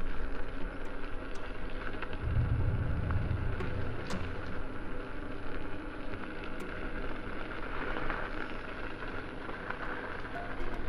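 Wind on the microphone and tyre rolling noise while riding an electric unicycle: a steady rushing noise with a few small clicks, and a heavier low rumble of wind that comes in about two seconds in.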